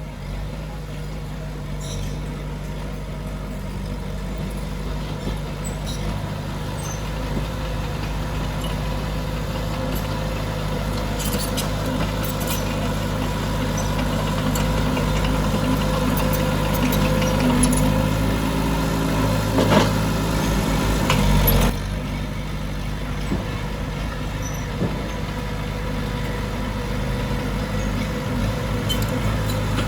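Heavy diesel construction machinery running steadily, with a few knocks along the way. It grows gradually louder for about twenty seconds, then drops off suddenly about two-thirds of the way through.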